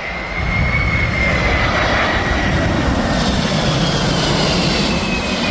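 A Boeing 767-300ER jet airliner on landing approach flying past: a loud, steady rush of engine noise that swells about half a second in, with a high whine that slowly falls in pitch as it goes by.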